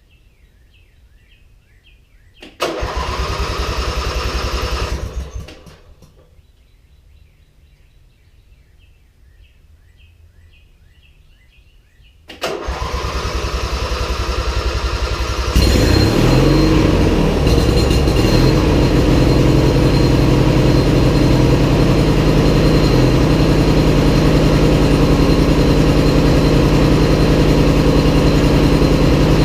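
Briggs and Stratton opposed-twin riding mower engine turned over by its repaired electric starter for about three seconds without firing, then cranked again about twelve seconds in and catching about three seconds later, settling into a steady run.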